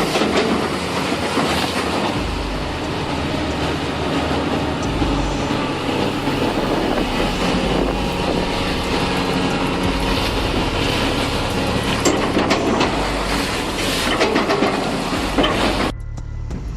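Heavy machinery running with a dense, steady rumble and rattling clatter. The sound changes abruptly near the end.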